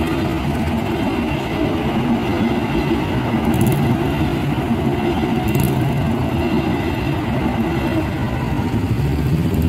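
Road traffic at a railway level crossing, mostly motorcycles and cars with their engines running as they pass, a steady mass of engine noise.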